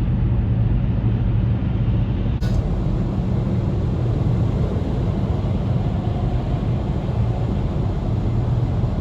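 Steady road and engine noise heard inside a car driving at highway speed: a low rumble with tyre hiss over it. There is a brief click about two and a half seconds in.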